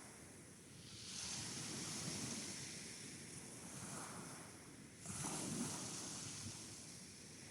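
Sea waves rolling in and washing up the beach, one surge about a second in and a stronger one about five seconds in, each fading away.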